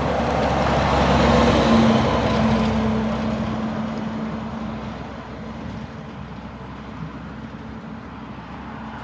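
A truck driving past, loudest about two seconds in. Its steady engine drone and tyre noise then fade as it moves away.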